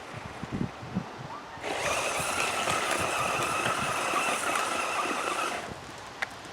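Electric RC car running at speed, a steady high motor whine over tyre noise for about four seconds, then cutting off near the end; a few soft knocks before it starts.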